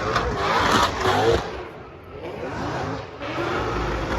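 Car engine revving hard, its pitch rising and falling again and again over broad tyre and road noise, loudest about a second in.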